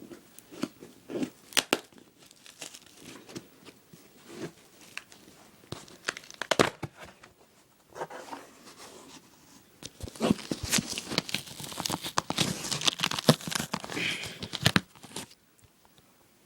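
A cardboard shipping box being torn open by hand: packing tape ripping and cardboard crinkling in irregular snaps and tears. The ripping grows denser and louder for the last few seconds, then stops suddenly.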